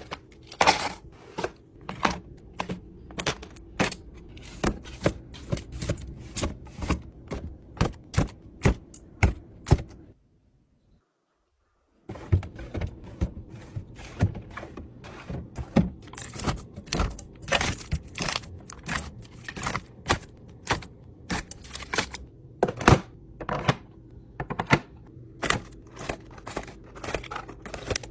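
Quick knocks, clicks and taps of food containers being handled and set down while a fridge is stocked, several a second, with about two seconds of dead silence near the middle.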